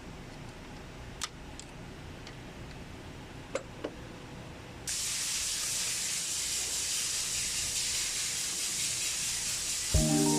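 A few faint clicks, then about five seconds in a steady hiss starts abruptly and runs on evenly.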